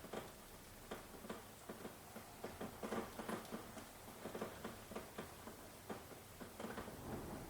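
Rain falling, heard as an irregular patter of drops tapping close by over a light hiss.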